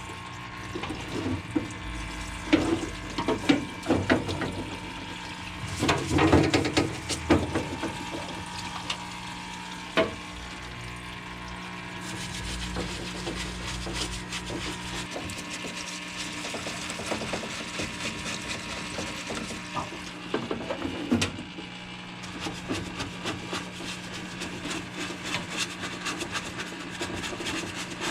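Parts-washer pump running with cleaner solution spraying and running off, while a brush scrubs grease and grime off an engine case half, with irregular knocks and scrapes as the part is handled.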